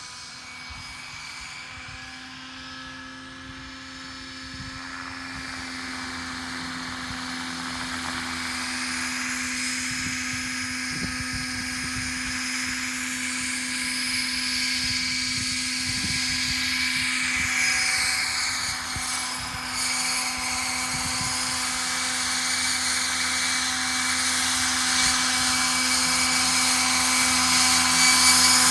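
Roban EC135 scale RC helicopter in flight with its rotor head at about 1250 RPM: a steady whine from the electric motor and rotors, holding one pitch and growing steadily louder as the helicopter comes closer.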